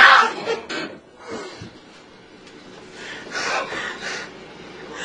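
A person gasping and breathing hard in a few breathy bursts, the longest about three seconds in, after a scream.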